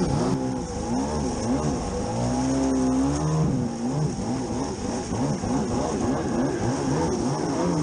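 Two-stroke stand-up jet ski engines running on the water, their pitch rising and falling quickly and repeatedly as the throttle is worked, with more than one engine heard at once.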